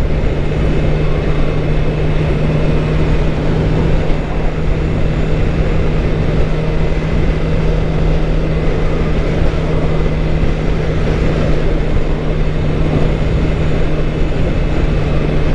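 2013 Suzuki GSX-R 600's inline-four engine running at a steady cruise, its note holding level, over a constant rush of wind noise.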